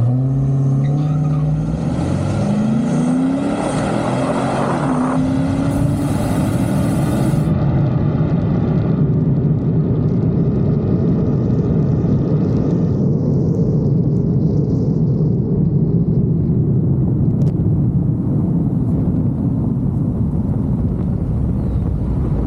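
Car engine accelerating hard down a drag strip, its pitch rising steadily for about five seconds, then giving way to a loud, steady rushing drone.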